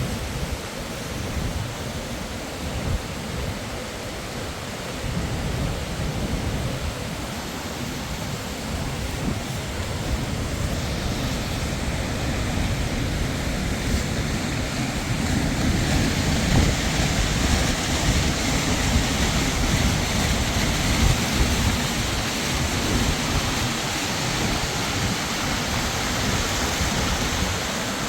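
Steady rush of water, growing louder about halfway through.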